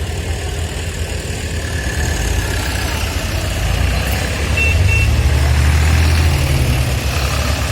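Tractor engines running with a low steady rumble, growing louder about halfway through as one comes close and then easing off. A short high tone sounds briefly around the middle.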